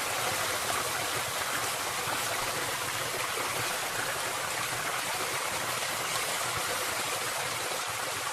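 Steady, even rushing hiss that holds level without change.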